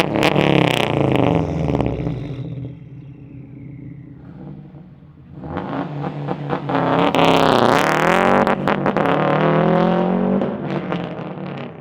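2004 Subaru STI's turbocharged 2.5-litre flat-four revving through a 3-inch catless straight-pipe turbo-back exhaust. A rev falls away in the first two seconds with a high tone gliding down after it. After a quieter stretch, a second long rev climbs about five seconds in, is held high, and breaks into rapid stutters as it drops near the end.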